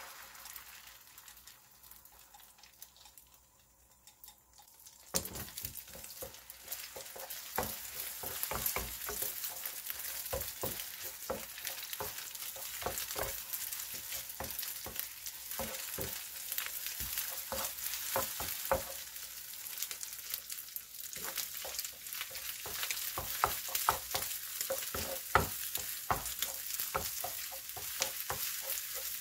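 Beaten eggs frying in an oiled nonstick pan, sizzling while a wooden spatula stirs and scrambles them with frequent taps and scrapes against the pan. The sizzle comes up loudly about five seconds in.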